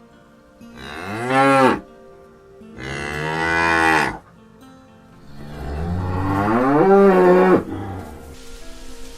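Cattle mooing: three long, loud moos, the last the longest.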